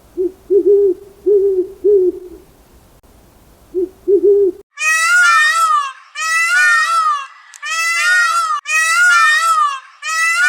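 An owl hooting: a string of short, low hoots in small groups. About four and a half seconds in, this gives way to a different, much louder high-pitched animal call of rapid repeated notes, given in five bursts of about a second each.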